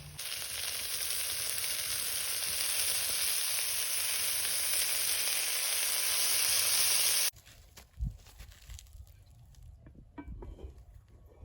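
Sausage rolls frying in hot oil, a steady sizzle that cuts off suddenly about seven seconds in. After that, a much quieter stretch with a few soft low knocks.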